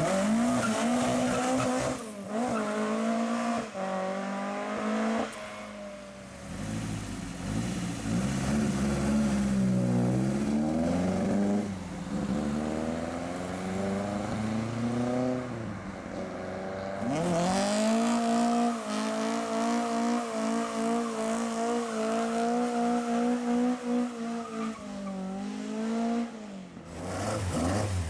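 Classic Ford car engines revving as the cars pull away, the note rising and falling several times. From a little past halfway one engine is held at high revs for several seconds, then drops off near the end.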